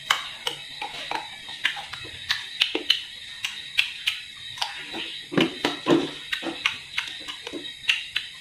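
Close-up chewing of crisp raw guava: irregular wet crunches, clicks and lip smacks several times a second, loudest about halfway through, over a steady high-pitched hiss.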